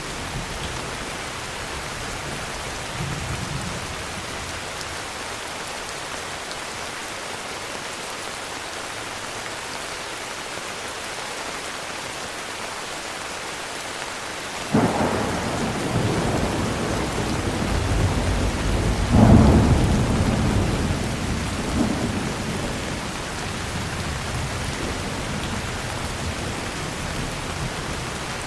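Heavy rain falling steadily. About halfway through, thunder breaks in suddenly and rumbles, with a second, louder crack a few seconds later, then rolls away while the rain goes on.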